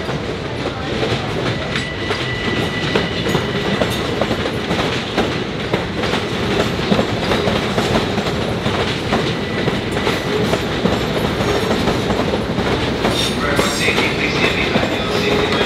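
LIRR M7 electric multiple-unit train rolling past, its steel wheels clattering in an irregular run of clicks over rail joints and yard switches.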